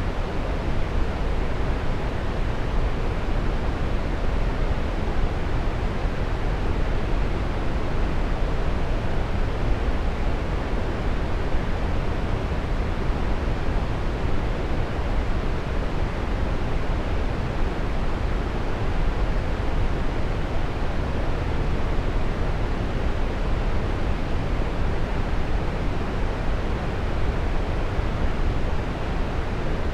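Waterfall: falling water rushing in a steady, unbroken roar, deep and full at the low end with little hiss.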